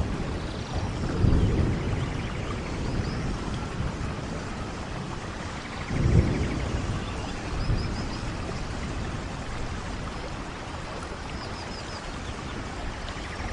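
Steady rainfall with low rolls of thunder swelling about a second in and again around six seconds in.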